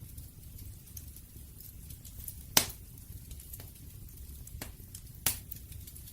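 Wood fire crackling over a low, steady rumble of the flames, with two sharp pops about two and a half and five seconds in, the first the loudest, and a few fainter ticks between.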